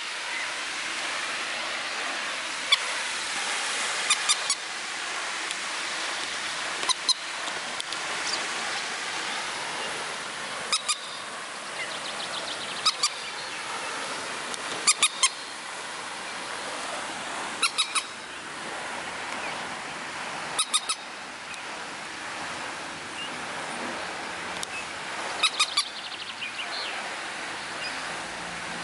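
A bird's short, sharp call notes, in pairs and threes every two to three seconds, over a steady rushing background noise.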